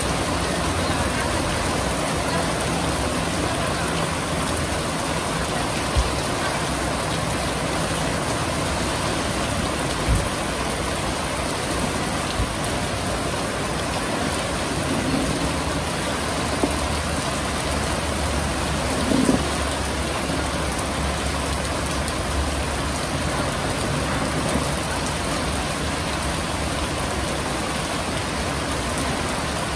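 Steady rain falling, a continuous hiss with a low rumble underneath and a few brief knocks.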